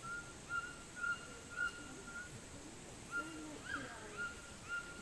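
A bird calling: short whistled notes that rise briefly and then hold, repeated about twice a second, with a short pause midway, over a faint steady high hiss.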